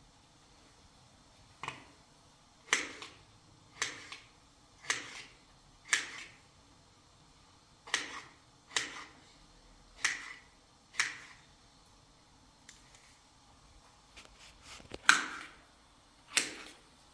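A series of sharp knocks or strikes, mostly about one a second, each with a brief ringing tail. After a pause of a few seconds comes the loudest strike, then one more.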